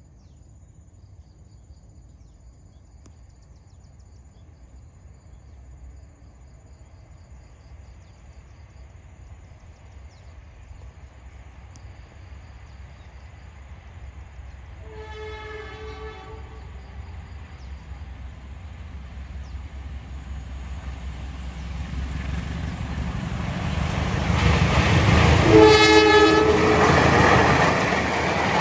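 Diesel locomotive hauling a passenger train approaches with a rumble that steadily grows louder, sounding its horn twice: a faint short blast about halfway through and a loud blast of about a second near the end as it reaches the camera and begins to pass.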